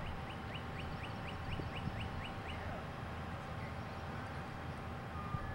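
A bird calling a quick run of about a dozen short, high, rising notes at an even pace, which stops about two and a half seconds in, over steady outdoor background noise.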